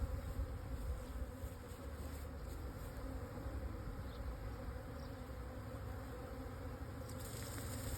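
A honeybee swarm buzzing steadily, many bees in the air at once, stirred up after being knocked from their branch into a hive box.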